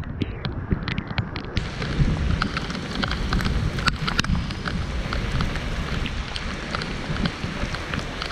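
Heavy rain falling, with many separate drops ticking sharply close to the microphone over a steady low rumble.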